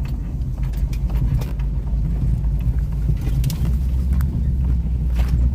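Rear-wheel-drive pickup truck's engine running steadily as it drives over a clay track, with scattered knocks and rattles. The engine note shifts about three and a half seconds in.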